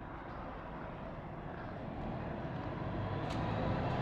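Steady engine and road noise heard inside a moving shuttle bus, slowly growing louder.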